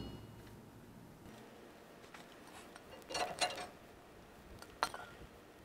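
A few light metallic clinks and a short rattle about three seconds in, then a single sharp click near the end, as metal tools or hardware are handled; otherwise quiet.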